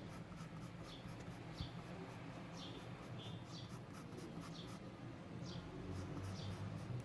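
Graphite pencil drawing short shading strokes on paper, one scratchy stroke after another, over a low steady hum.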